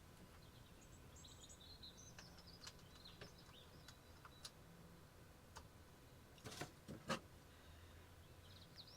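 Near silence with faint bird chirps and tweets outside, and a few soft clicks and knocks about six and a half to seven seconds in.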